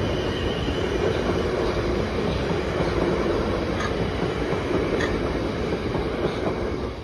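South Western Railway electric multiple unit passing at speed: a steady rumble of wheels on rails with a few sharp clicks, easing off near the end.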